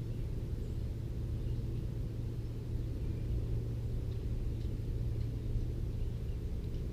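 Steady low rumble with a constant low hum, and a few faint, very short high chirps from small birds scattered through it.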